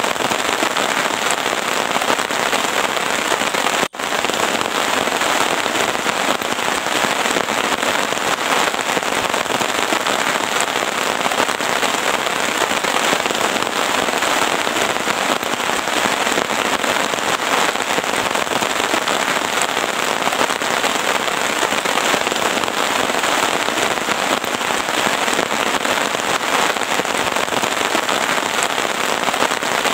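Heavy rain falling steadily, a dense crackle of drop impacts, cutting out for an instant about four seconds in.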